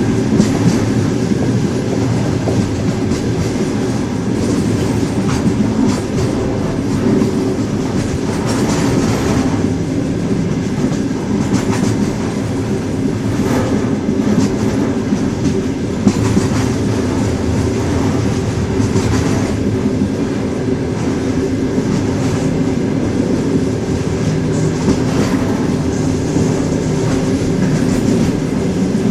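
Train wheels running on the rails: a steady rumble with a few faint steady tones, and now and then a clack from the wheels passing over a rail joint.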